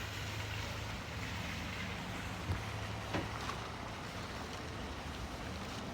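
Jet aircraft flying over: a steady, even roar with a low hum underneath, and two short clicks about halfway through.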